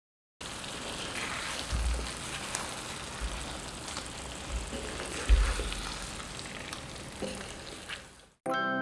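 Paneer and masala gravy sizzling in hot oil in a kadai while a wooden spatula stirs and scrapes through it, with a few low knocks, the loudest about five seconds in. The sizzling starts just after the beginning and cuts off suddenly near the end.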